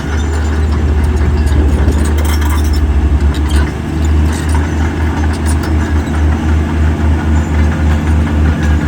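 Heavy diesel engine of earthmoving equipment running with a low rumble that pulses about twice a second. A few sharp clanks come in the first half.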